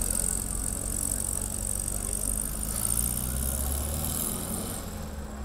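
A motor vehicle's engine idling steadily, its low hum swelling for a moment about three seconds in.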